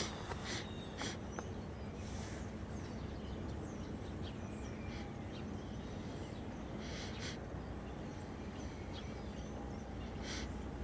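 Quiet outdoor ambience: a steady low hum of background noise, with a few soft clicks in the first second or so and some faint short high chirps and ticks.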